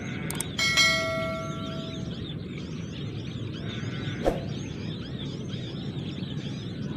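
Dense, continuous chatter of small-bird chirps over a low steady hiss. About a second in, a short metallic ring fades away over roughly a second, and a single sharp click comes a little past the middle.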